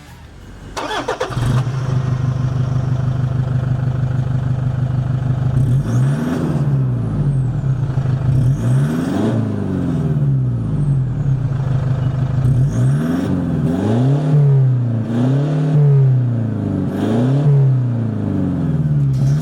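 Toyota Hilux turbo-diesel engine heard through its exhaust: it starts about a second in, settles into a steady idle, then is blipped about six times, each rev rising and falling back to idle.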